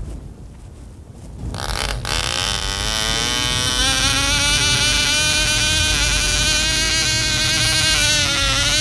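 Radio-controlled model airplane's small engine and propeller opening up to full throttle: the buzzing whine rises in pitch over about two seconds, starting a second and a half in, then holds steady and loud.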